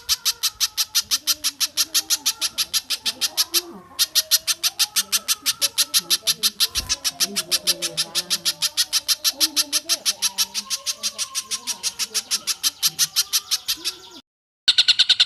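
Masteran bird-call recording of a small bird, pijantung (spiderhunter) or tengkek buto, giving a long, fast series of sharp chips at about ten a second, with a short break about four seconds in. Fainter, wavering lower calls sound underneath. The series stops just before the end and a different, higher call begins.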